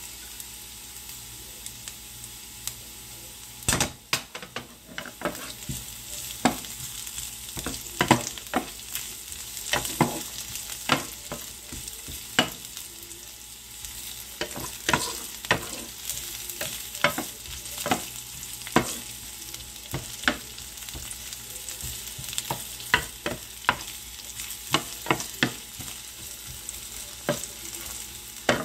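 Sliced onions and chopped garlic sizzling in oil in a frying pan, with a wooden spatula knocking and scraping against the pan as they are stirred. The knocks come over and over from about four seconds in.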